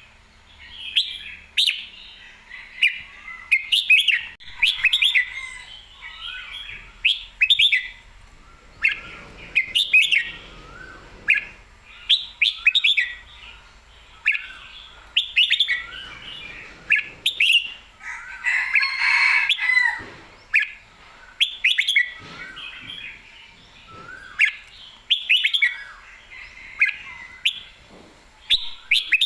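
Red-whiskered bulbul singing: short, clear chirpy phrases repeated every second or so, with one longer, fuller phrase about two-thirds of the way through.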